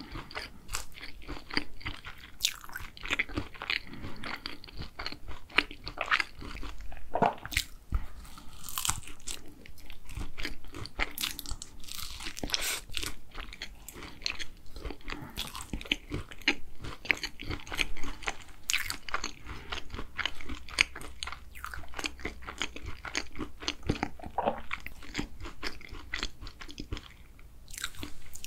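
Close-miked chewing of a pecan tart: the crisp pastry shell and pecans crunch in many small, irregular crackles.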